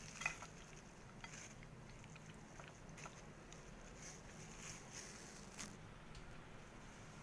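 Faint, scattered light clicks and taps of a kitchen utensil against a frying pan, over a low background hiss.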